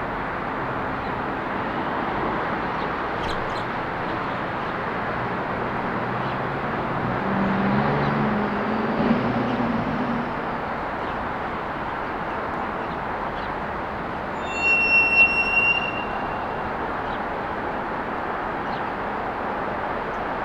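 Steady wash of road traffic, with a heavier vehicle's engine hum swelling and passing about a third of the way in. A high, steady squeal lasting about a second and a half sounds about three-quarters of the way through.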